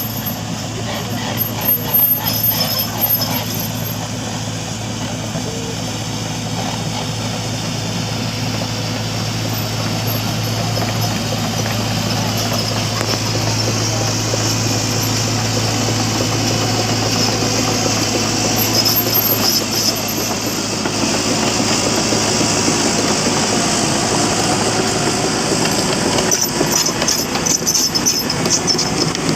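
Heavy diesel truck engine running steadily on the climb, slowly growing louder.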